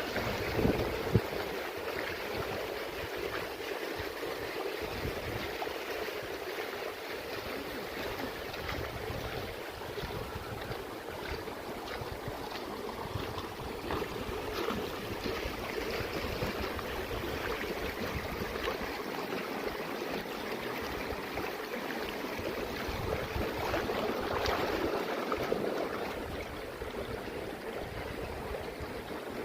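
Mountain stream running steadily, a constant rush of water, with one brief knock about a second in.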